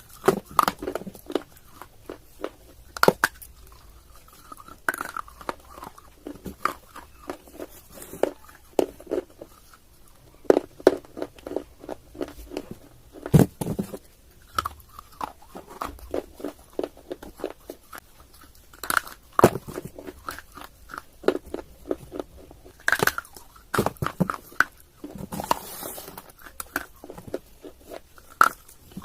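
Close-miked biting and chewing of hard, dry, chalky pieces (slate pencil or baked clay): an irregular run of sharp crunches, a few much louder snaps as pieces break, and softer gritty chewing between them.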